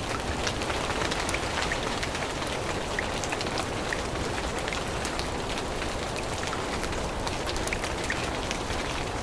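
Steady rain falling, with many separate drops ticking close by over the constant hiss.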